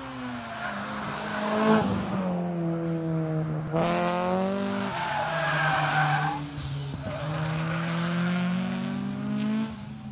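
A twincharged Toyota 4A-GZE four-cylinder in an AE82 Corolla GT revving hard on track, its pitch climbing and dropping through gear changes. Short sharp hisses from the blow-off valve come between shifts, and a higher whine joins around the middle.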